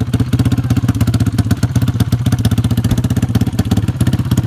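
Sport ATV engine running loudly at a steady speed, its exhaust beating in a fast, even pulse, starting up sharply at the outset.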